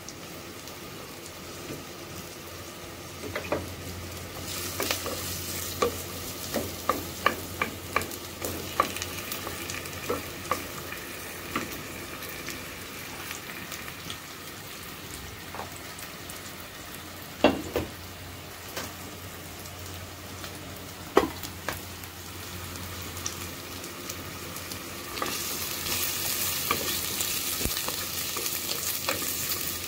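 Shallots, ginger and minced garlic sizzling in hot oil in a ceramic pot, with a wooden spatula tapping and scraping against the pot as they are stirred. The sizzle grows louder near the end.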